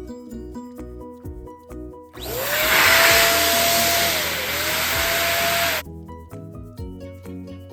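Electric balloon pump blowing air for about three and a half seconds, its motor whine rising as it spins up, dipping once and rising again, then cutting off suddenly. Background music with a steady beat plays before and after.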